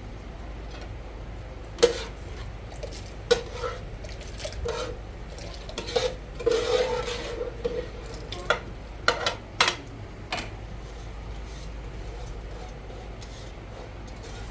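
Dishes or metal pots knocking together as they are handled: a series of sharp clanks, each with a short ringing tone, loudest about two and three seconds in and busiest between about six and ten seconds.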